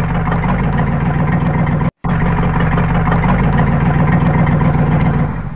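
A vehicle engine running steadily with a low hum and clatter, standing for the model snowplough pushing through snow. The sound cuts out for a moment about two seconds in.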